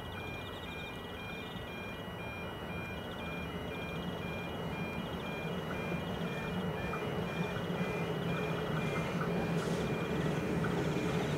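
Diesel train approaching, its low engine hum growing steadily louder.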